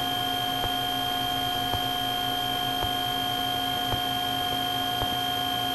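Steady drone of a Cessna 310's twin six-cylinder piston engines and propellers, heard inside the cabin through the intercom, held at reduced slow-flight power. A few faint ticks sound over it.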